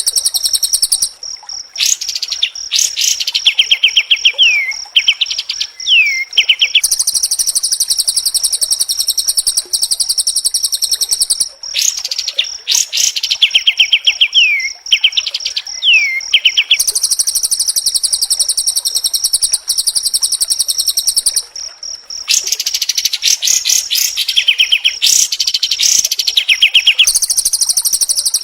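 White-rumped shama (murai batu) song at a fast, dense pace: long, high-pitched rattling trills of rapid repeated notes, broken by a few short downward-sliding whistles. The phrase pattern repeats about every ten seconds, as in a looped training recording.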